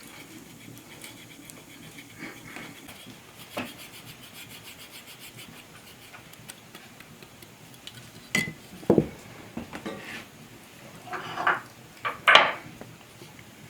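Kitchen utensils and cookware knocking and scraping. After a quiet stretch with faint clicks, a few sharp clinks and scrapes come in the second half.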